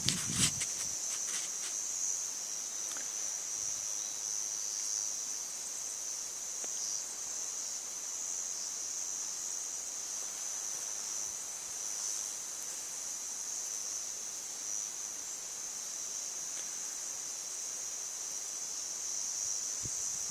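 Insects chirring in one steady, high-pitched drone that never breaks, with a few faint clicks in the first second or so.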